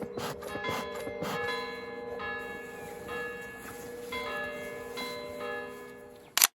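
Church bells ringing, a new strike about every second with each note ringing on over the last. A sharp click near the end, then the sound cuts off.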